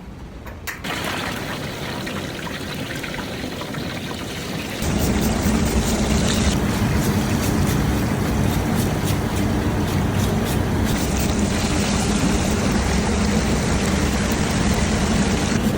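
Hot oil sizzling and crackling steadily as chicken deep-fries, growing clearly louder about five seconds in.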